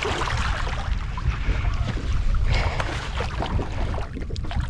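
Wind buffeting the microphone on an open boat at sea: a steady low rumble under a broad hiss, with scattered light knocks.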